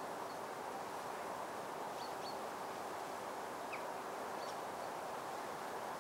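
Steady outdoor ambient hiss with a handful of brief, high chirps from small birds scattered through it.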